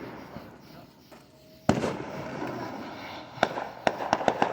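Fireworks going off: a single sharp bang with a short tail about a second and a half in, then a quick run of sharp crackling pops near the end.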